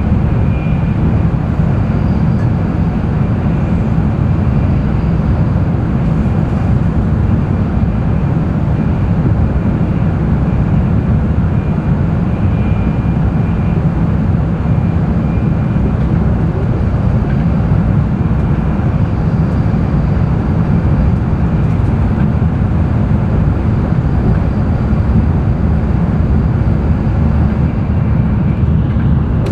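Running noise of an N700-series Shinkansen at speed, heard inside the passenger cabin: a steady low rumble with a faint high whine.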